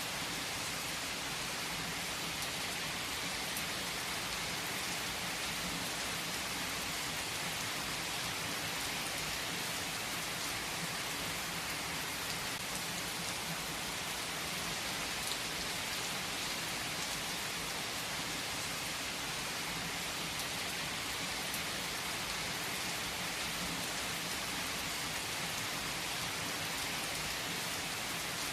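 Steady rain falling, an even, unbroken hiss with no distinct thunder claps.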